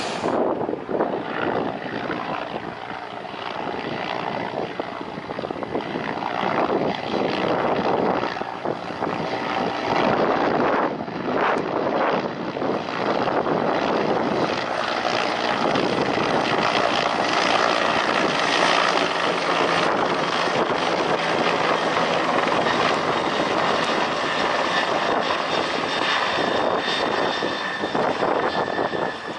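Airliner engines running: a steady noise with a faint high-pitched whine that holds throughout.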